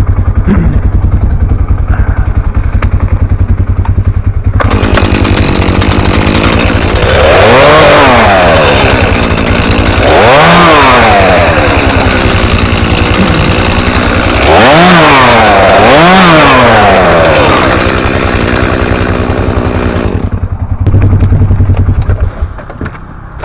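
Two-stroke chainsaw idling, then run up to full throttle for about fifteen seconds while cutting saplings, its pitch rising and falling about four times. It drops back to idle near the end.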